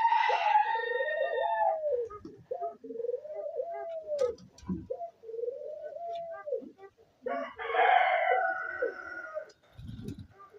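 Laughing doves (Egyptian turtle doves) cooing in a run of rising-and-falling notes. A rooster crows twice over them, at the start and again about seven and a half seconds in.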